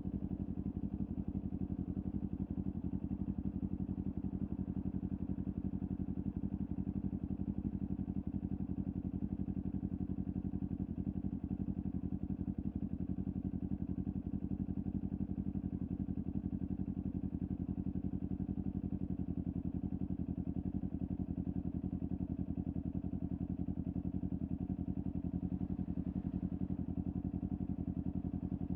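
Kawasaki Ninja 400's parallel-twin engine through a LeoVince aftermarket exhaust, idling steadily at an unchanging pitch.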